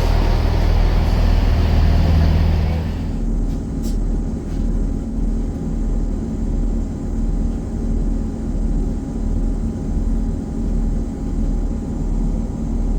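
Diesel train engine idling with a steady low throbbing hum. A loud rushing hiss over the first three seconds cuts off abruptly.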